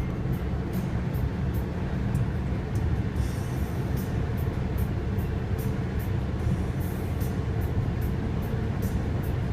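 Strong wind buffeting the microphone: a steady low rumble, with many faint quick ticks high up.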